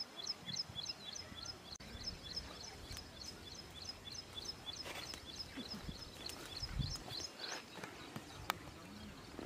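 A bird repeats a short high chirp about three times a second over faint outdoor background noise, with a few soft knocks and thumps.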